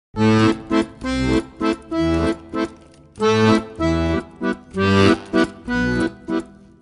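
Accordion music starting abruptly just after the start: a tune over a steady rhythmic accompaniment of bass notes and chords.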